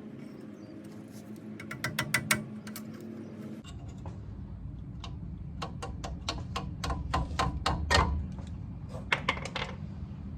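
Runs of sharp metallic clicks and taps from hand tools working on brake hose fittings and retaining clips, over a steady low hum.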